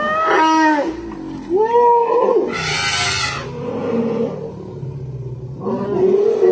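Elephants calling: several high squeals that bend up and down in pitch, with a harsh noisy blast about two and a half seconds in.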